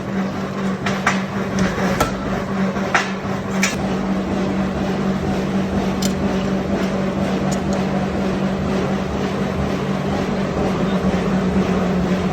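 Forging shop machinery running with a steady hum, with several sharp metal knocks in the first four seconds and a few fainter ones around six to seven and a half seconds in.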